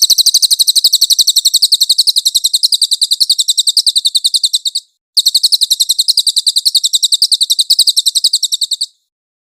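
Cililin songbird singing a long, high, rapid trill of evenly repeated notes. It breaks off briefly at about five seconds, then resumes and stops near nine seconds.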